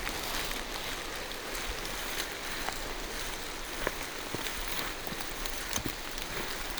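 Steady rain falling through forest trees, with scattered single drops ticking close by.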